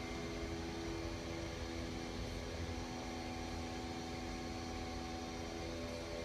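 Steady hum of a large CNC machine tool running: several steady tones over an even low drone, with no change in level.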